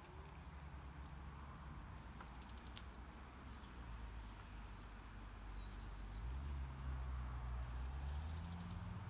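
A small bird sings short, high trills three times, about two, five and eight seconds in. Under it runs a low, steady hum that grows louder in the second half.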